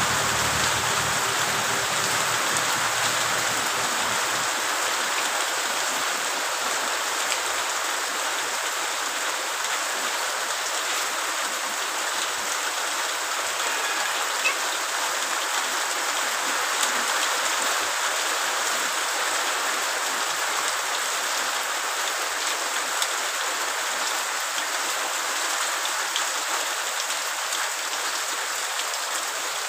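Steady rain falling on a wet asphalt road and muddy roadside, an even hiss of drops and splashes, easing slightly toward the end.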